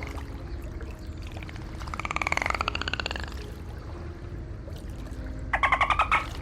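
Dolphin clicks and burst-pulse calls: a buzzing pulsed call about two seconds in and a rapid rattling click train near the end, over a steady low rumble.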